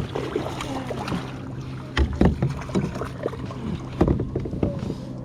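Knocks and thumps on a fishing kayak while a bass is being played, the two loudest about two and four seconds in, over a steady low hum.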